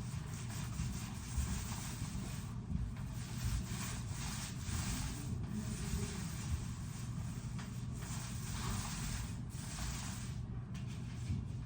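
Paint roller being rolled back and forth over a painted surface: repeated rubbing, hissing strokes that swell and fade about once a second over a low steady rumble.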